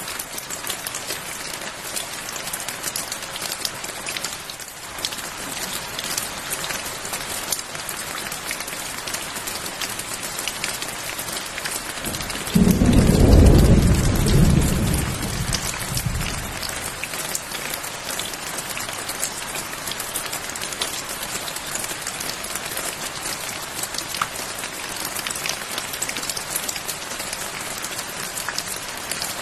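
Steady rain falling, with a clap of thunder about halfway through that starts suddenly as a low rumble and fades away over some three seconds.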